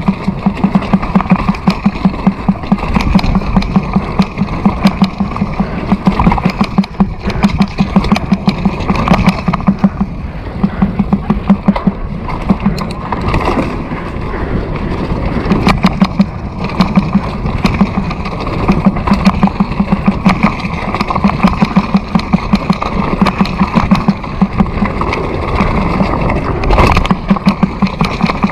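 Motorcycle engine running steadily while riding, its exhaust pulsing rhythmically, with rushing air over the microphone.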